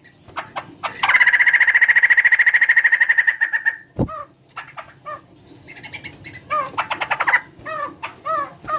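Laughingthrush calling: a long, fast rattling trill lasting about three seconds, then a sharp knock, then a series of short repeated call notes.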